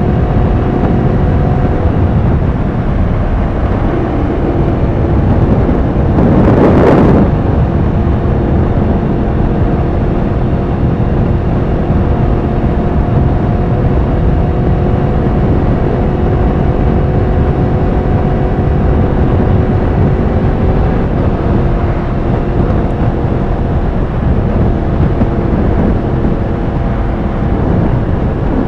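Yamaha R1's inline-four engine cruising at steady revs, with wind rush over the bike. About seven seconds in, a brief loud whoosh.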